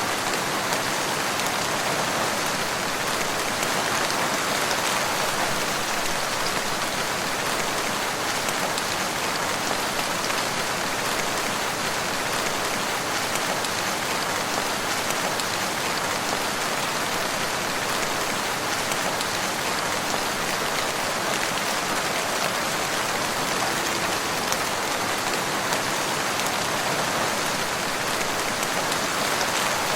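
Steady rain falling in a forest, an even hiss of many fine drops with scattered small drip ticks.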